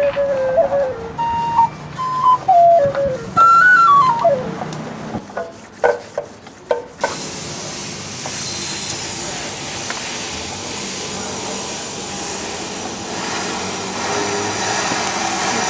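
A single high, flute-like melody of sliding and stepped notes, then a few short sharp notes. About seven seconds in, it cuts suddenly to a steady hiss.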